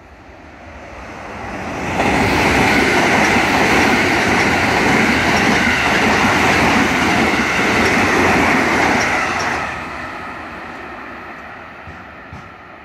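A JR West Special Rapid electric multiple-unit train passing at speed. Its wheels run loudly over the rails: the noise builds over about two seconds, holds for about eight seconds while the cars go by, then drops and fades as the train recedes.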